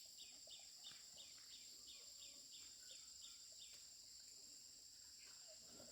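Faint outdoor ambience: a steady high-pitched insect drone, with a repeated chirp about three times a second that stops a little past halfway.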